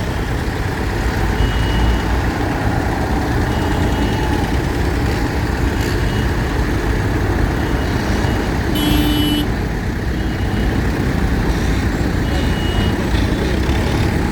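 Heavy diesel engines of tractors and lorries running steadily, with a short horn toot about nine seconds in and brief high beeps every couple of seconds.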